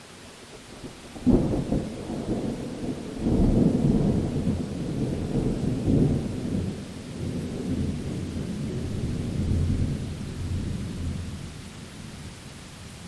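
A sharp crack of thunder about a second in, then a long rolling rumble that swells and slowly dies away, over a steady hiss of rain.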